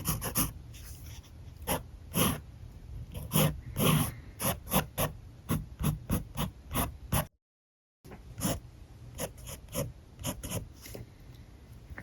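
Alcohol marker nib scratching across paper in many quick, short strokes, several a second. The audio cuts to dead silence for under a second about two-thirds of the way in.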